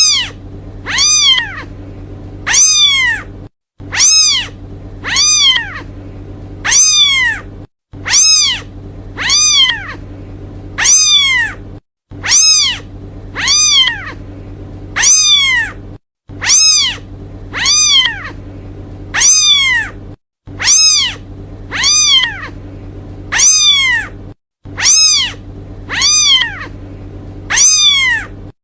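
Kitten meowing over and over, high-pitched calls that rise and fall in pitch, about three every four seconds, over a steady low hum: a kitten calling for its mother.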